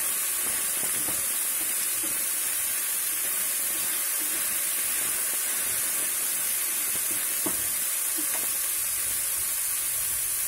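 Diced raw banana sizzling steadily in hot oil in a nonstick frying pan while a spatula stirs it through, with a couple of light clicks of the spatula against the pan near the end.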